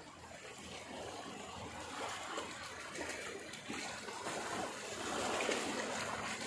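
Water splashing and trickling, growing louder about five seconds in.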